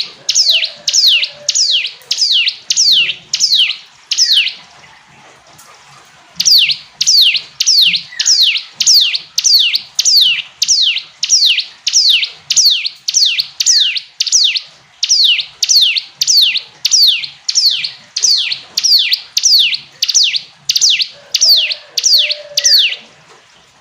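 Ciblek gunung (a prinia) singing a long series of sharp, downward-sweeping whistled notes, about two a second. The series breaks off for about two seconds around four and a half seconds in, then resumes at the same pace until just before the end.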